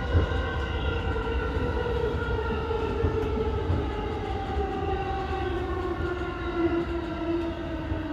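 Electric commuter train's traction motors whining as it brakes into a station. The stacked whine falls slowly and steadily in pitch over a steady low running rumble.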